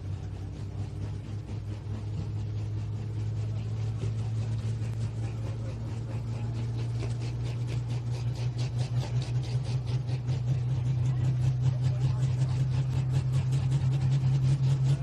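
Pro stock pulling tractor's single-turbo 680-cubic-inch diesel engine running hard, growing steadily louder and slightly higher in pitch, with a rapid even pulsing coming in about halfway.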